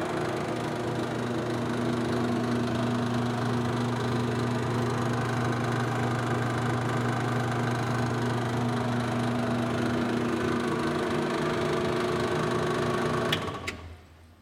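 Ammco brake lathe running with a steady motor hum, then switched off near the end with a sharp click and a quick run-down to quiet.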